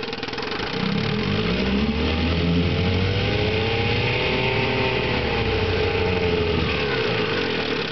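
1963 Johnson 5.5 hp two-cylinder two-stroke outboard motor running in reverse gear. About a second in it is throttled up, its pitch rising and then falling back, and it eases off near the end.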